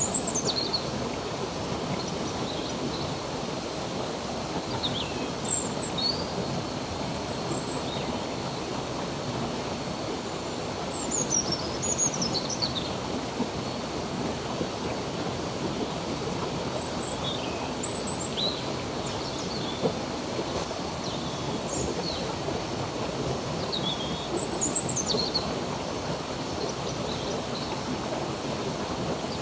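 Running water of a stream or creek rushing steadily, with small birds chirping now and then: short high calls that drop quickly in pitch, every second or two.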